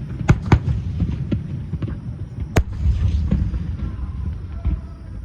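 Aerial fireworks shells bursting: two sharp reports close together near the start and another a little after two seconds, over a steady low rumble of booms.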